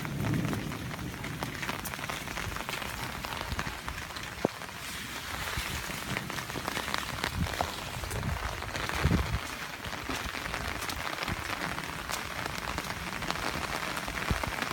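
Heavy rain falling on the yard, a steady hiss dotted with fine drop ticks, with storm runoff rushing through the yard underneath. A few louder taps stand out, the sharpest about four and a half seconds in and a cluster around nine seconds.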